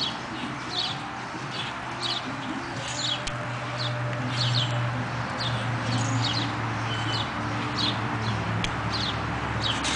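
A flock of birds chirping, many short high chirps several times a second, over a steady low hum that grows louder through the middle.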